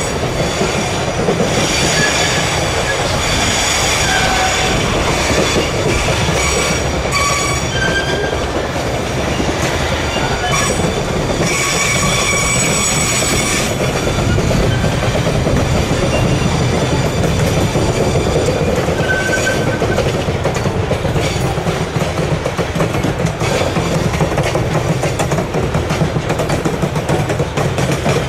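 Freight train wagons rolling on the rails, a steady rumble and clatter, with the steel wheels squealing in high, shifting tones that come and go.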